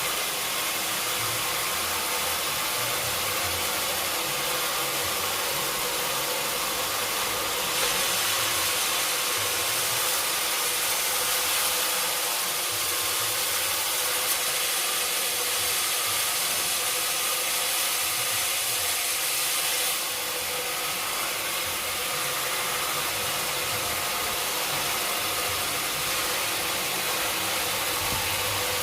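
Sawmill saw and its motor running steadily, with a louder, hissier stretch from about eight seconds in to about twenty seconds in.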